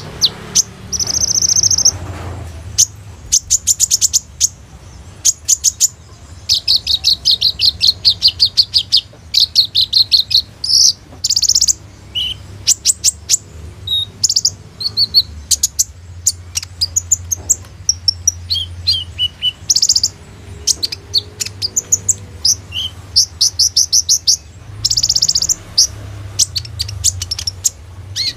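Kolibri ninja sunbird singing continuously, high and fast: long rapid trills broken by sharp single chips and short warbled phrases, a loud song packed with varied phrasing.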